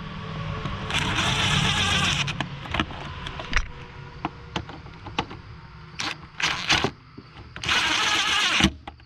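Power driver turning an 8 mm socket in two short whirring bursts, about a second long each, tightening the fasteners of the air filter housing, with sharp clicks and knocks of the tool between them, over a steady low hum.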